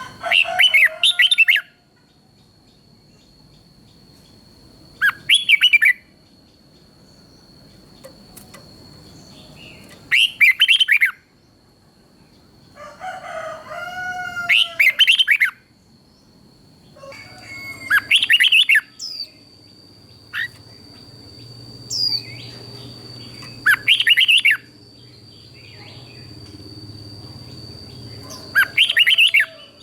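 Red-whiskered bulbul singing short, loud, warbling song phrases, one about every three to five seconds, with a faint steady high whine underneath.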